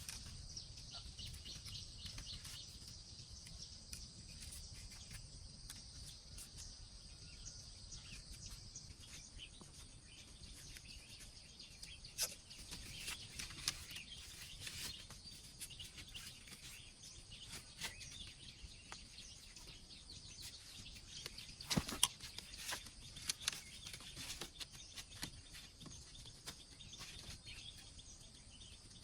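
Forest ambience with a steady high-pitched insect buzz, broken by scattered clicks and knocks; the loudest come about two fifths of the way in and in a short cluster about three quarters through.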